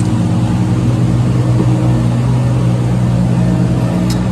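Car engine running steadily at idle, an even low hum with no revving.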